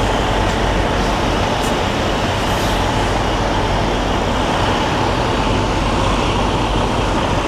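Semi truck's diesel engine running steadily at low revs, a continuous low hum, as the rig is backed slowly.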